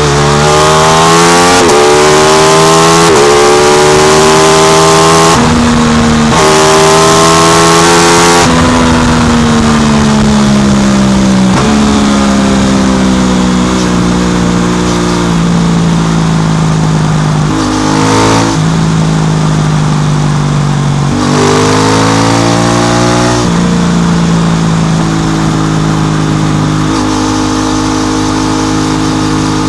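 Aprilia RS660's parallel-twin engine through an SC Project exhaust, pulling hard up through several gears: the note climbs and drops sharply at each shift for about the first eight seconds. It then settles to a steadier, slowly falling note, with two short revs later on.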